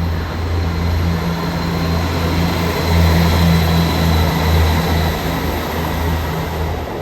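A passenger train at the platform, its engine running with a steady low hum over rail noise, loudest about three seconds in.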